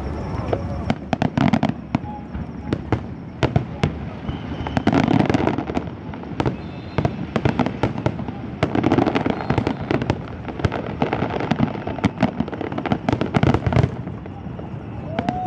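A fireworks display: rapid sharp bangs and crackling throughout, with denser, heavier salvos about every four seconds.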